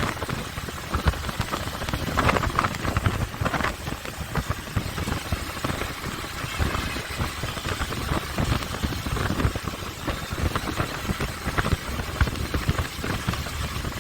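Motorcycle riding along, its engine running under a heavy, uneven rumble of wind buffeting the microphone.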